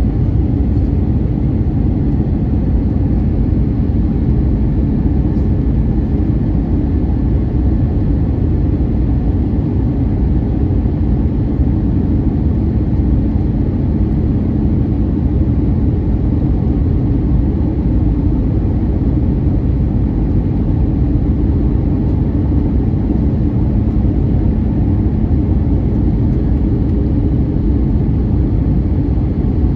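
Steady cabin noise inside an Airbus A321neoLR in flight: the low rumble of engines and airflow, with a faint steady hum underneath.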